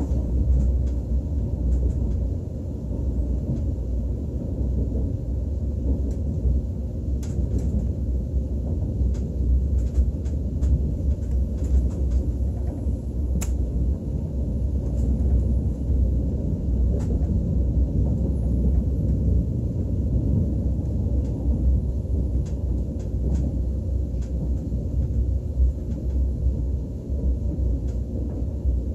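Steady low rumble of a KTX high-speed train running along the track, heard from inside the passenger cabin, with faint clicks now and then.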